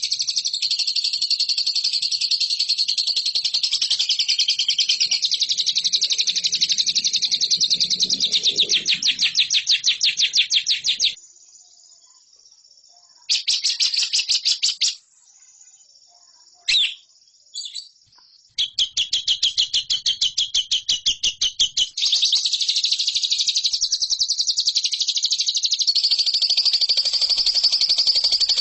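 Lovebird singing a long, very fast chattering trill of rapidly repeated high notes. It stops about eleven seconds in, leaving a short burst and a couple of brief calls over the next several seconds, then the trill resumes and runs on.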